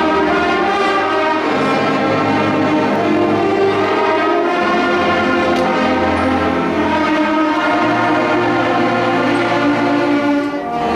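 A school concert ensemble playing loud, sustained chords, with a low bass line that changes note every second or two.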